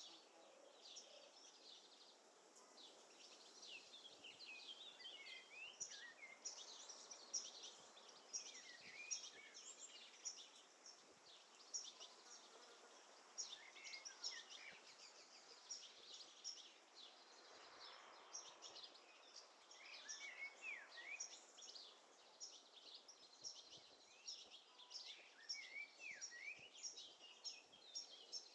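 Several small birds chirping and singing in quick, high, overlapping chirps over a faint background hiss.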